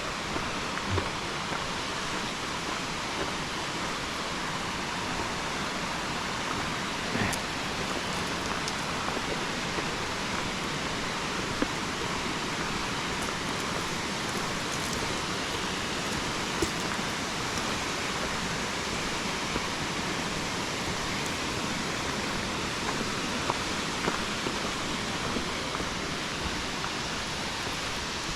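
Steady rushing of fast-flowing water from a mountain river and waterfall, with a few faint ticks.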